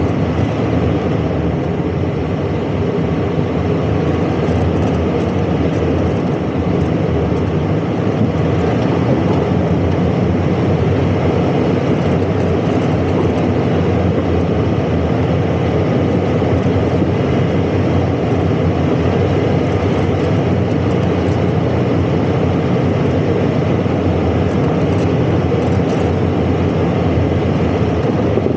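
Toyota 4Runner driving, its engine and tyre noise running steadily and loud throughout.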